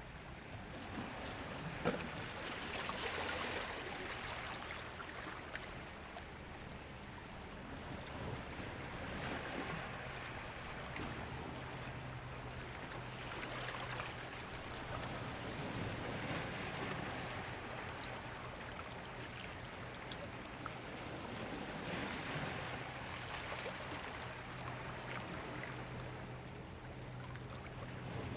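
Ocean waves washing in and receding, swelling and fading every several seconds, over a steady low hum and with a sharp click about two seconds in.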